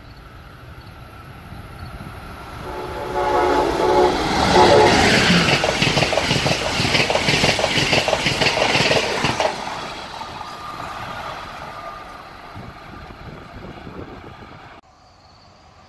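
Amtrak passenger train passing at speed: its horn sounds about three seconds in as it nears, then the rush of the cars and a rapid rhythmic clatter of wheels on rail, fading away as the train goes by.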